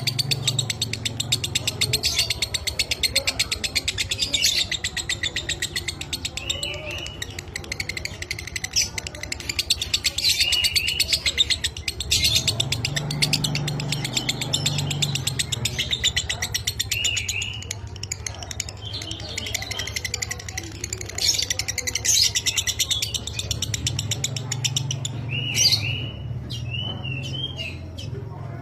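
Lovebird chattering in a long, fast continuous trill (the 'ngekek' song), with short curved chirps every few seconds and a low hum underneath at times.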